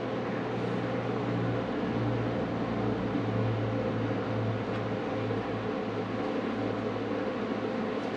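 A steady machine hum with a low drone and an even hiss, like a motor or fan running in the shop.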